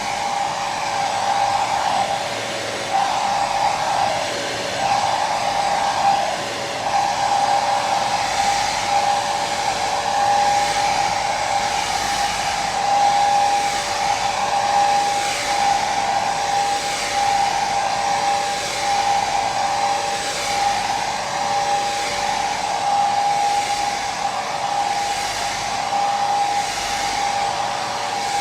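Electric hair dryer running steadily: a continuous blowing hiss with a steady motor whine over it that wavers slowly.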